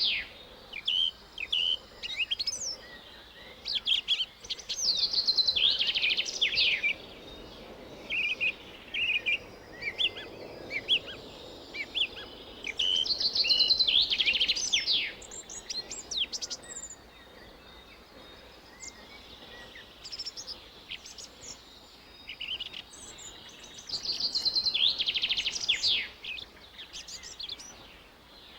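Birds singing and chirping outdoors: repeated short, high, trilling phrases every few seconds, with scattered single chirps between them over a faint steady background.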